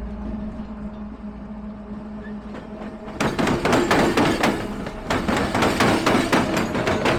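A steady low hum, then from about three seconds in a dense, irregular run of sharp knocks and clatter.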